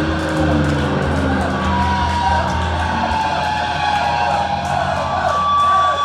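Heavy metal band playing live, with distorted electric guitar and bass ringing out as a song ends. The crowd starts to cheer and whoop near the end.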